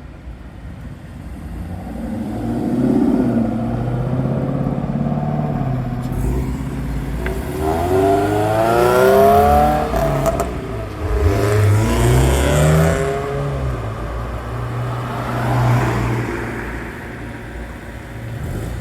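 Car engines revving and accelerating hard away from a standstill, their pitch rising in several pulls, loudest through the middle.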